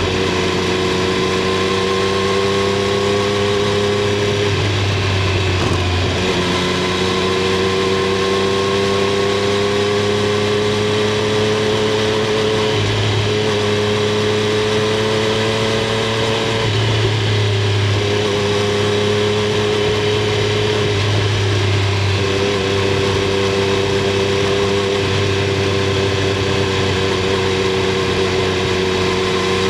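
Triumph Street Triple 765 R's 765 cc inline three-cylinder engine and exhaust under way at moderate revs. The engine note climbs slowly and drops back several times as the throttle is rolled on and off or gears are changed. Heard from under the bike's seat.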